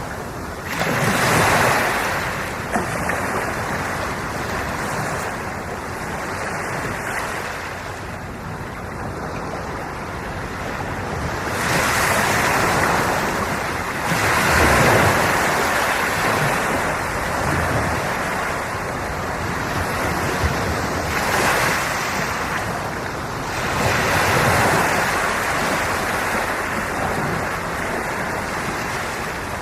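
Sea waves breaking and washing on the shore, a steady rushing surf that swells into louder surges every few seconds.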